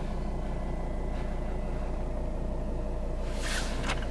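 Volvo S80 D5's five-cylinder turbo diesel idling, a steady low hum heard from inside the car's cabin. A faint rustle starts near the end.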